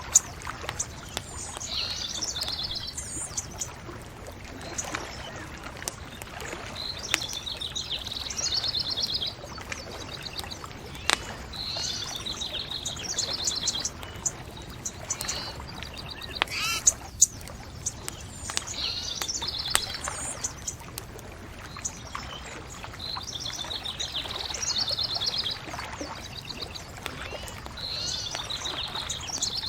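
A songbird sings short trilled phrases every few seconds over a steady background hiss, with a few sharp crackles from a bonfire.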